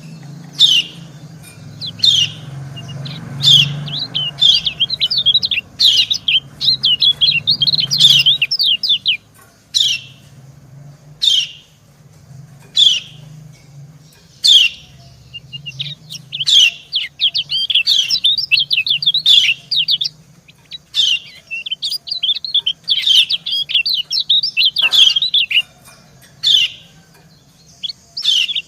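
Yellow white-eyes calling: single sharp, falling 'ciak' chirps from a female every second or two, answered by long runs of rapid, high twittering song from a male.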